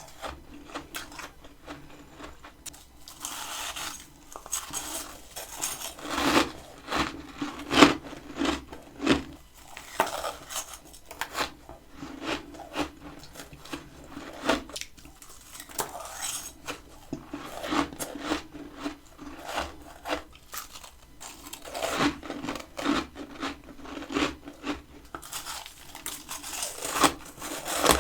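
Close-up biting and chewing of freezer frost: a run of irregular, crisp crunches and grinding, with louder bites now and then.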